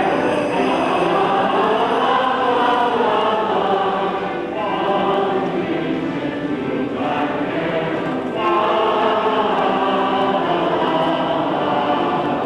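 A choir singing in held, sustained phrases, with short breaks between phrases about four and a half, seven and eight and a half seconds in.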